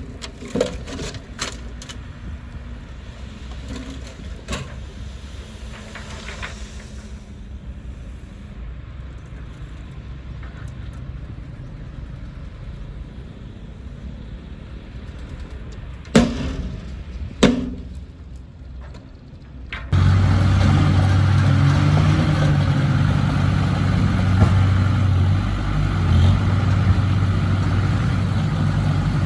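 Heavy-equipment engine running, with scattered sharp cracks in the first few seconds and two loud knocks a little past halfway. About two-thirds of the way in the engine suddenly becomes much louder and steadier.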